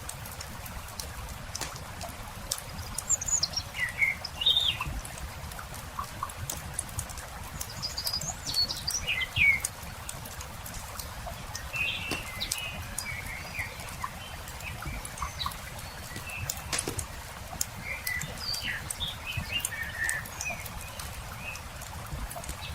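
Crackling campfire with scattered sharp pops over a low steady rumble, and small birds chirping in short bursts throughout.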